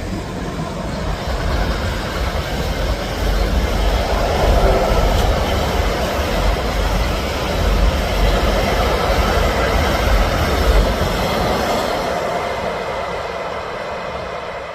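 Train passing close by: a steady, loud rumble of wheels on the rails that fades over the last few seconds.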